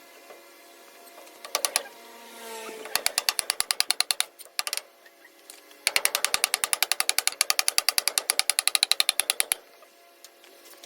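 Ratchet wrench clicking rapidly, about thirteen clicks a second, in two runs: a short one about three seconds in and a longer one of about three and a half seconds starting around six seconds in.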